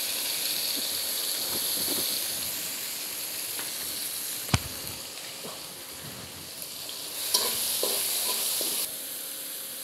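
Ginger-garlic paste frying with onions and whole spices in hot oil in a steel karahi, a steady sizzle. A single sharp click comes about halfway, and near the end a steel spatula stirs and scrapes the pan, louder for a moment.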